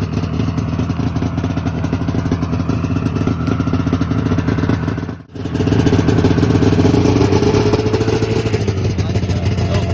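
1994 Yamaha VMAX 600 snowmobile's two-stroke engine running after a cold start, following a long time sitting. It dips briefly about five seconds in, then comes back louder with a slow rise in pitch as it is revved a little, before it settles again. To the onlookers it sounds like it needs lots of work.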